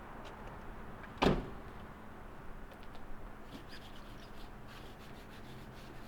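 A single short knock or clatter about a second in, over faint background noise, with a few light clicks later.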